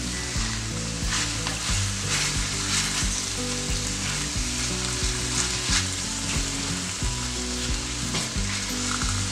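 Sliced mushrooms sizzling in butter and olive oil in a cast-iron skillet while a silicone spatula stirs them, with irregular scraping strokes over the steady sizzle.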